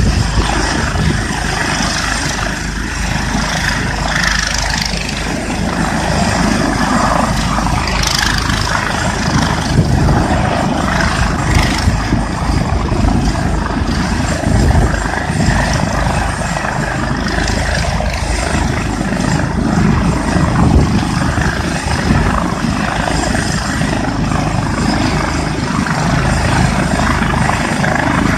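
Air ambulance helicopter running with its rotors turning, a steady loud engine and blade noise with a fast low beat from the rotor blades.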